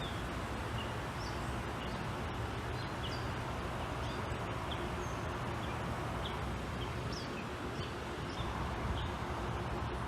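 Small birds chirping in short, sharp calls, a couple each second, over steady outdoor background noise with a low rumble.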